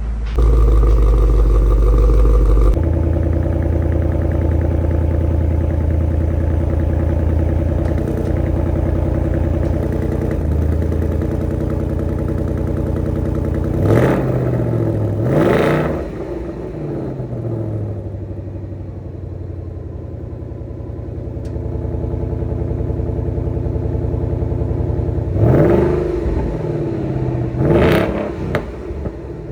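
2018 Ford Mustang GT's 5.0-litre V8 running at idle, blipped four times: two quick revs in the middle and two more near the end, each rising and falling back to idle.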